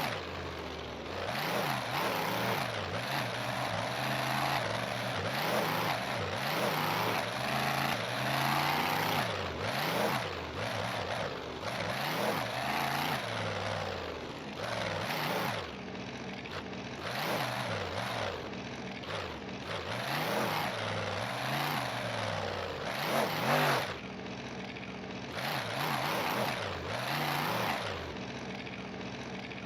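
Monster truck engine revving hard, its pitch rising and falling in repeated surges.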